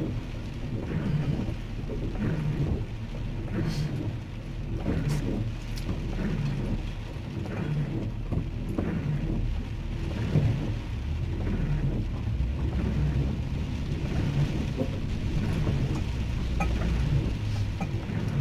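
Steady low rumble of the van and road, heard inside the cabin, with a few faint ticks.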